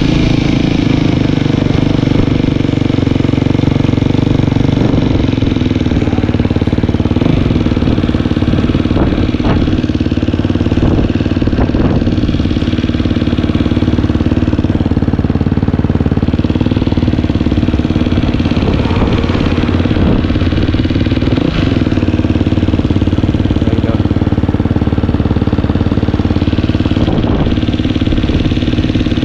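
Dirt bike engine running steadily at an even speed while being ridden, loud and close.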